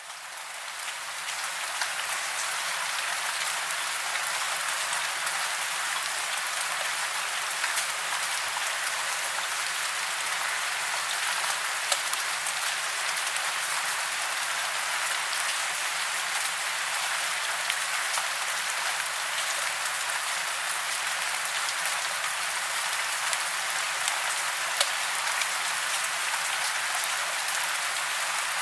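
Steady rain: a dense, even patter of drops with the odd sharper drop standing out, fading in over the first couple of seconds and then holding level.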